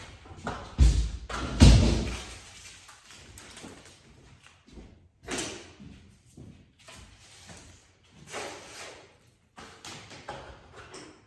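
Wooden trim boards knocking and thudding as they are handled: two heavy thuds about a second apart near the start, then scattered lighter knocks and clatter.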